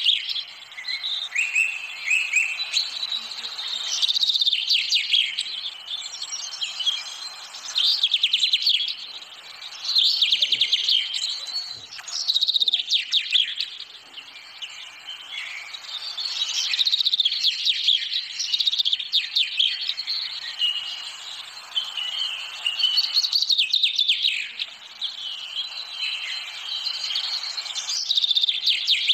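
Songbirds chirping and trilling in bursts of a second or two, repeating every few seconds, over a steady hiss.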